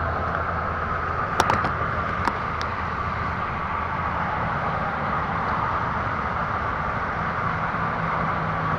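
Dirt bike engine running steadily at an even speed, with a few light clicks about a second and a half and two and a half seconds in.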